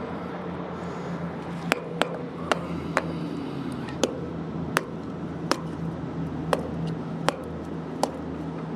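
A series of sharp clicks, about one every half second to second, starting about two seconds in, over a steady low hum of road traffic.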